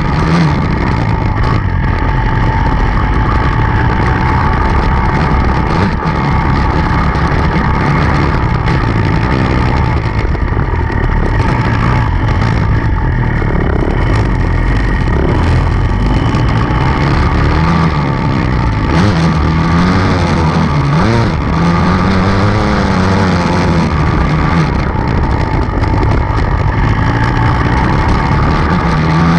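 Enduro dirt bike engine running hard under constant load as the bike is ridden, the revs rising and falling with throttle changes.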